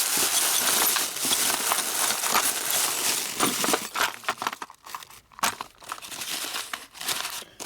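Hands rummaging through a box of loose hardware, small metal parts clicking and scraping against each other; busy for the first few seconds, then more scattered.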